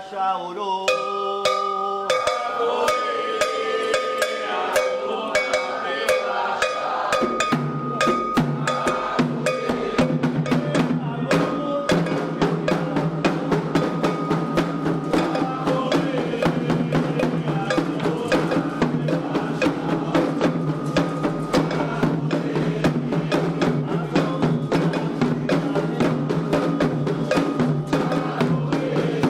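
Candomblé atabaque drums and an agogô bell playing a fast, driving ritual rhythm, the drumming growing fuller about seven seconds in.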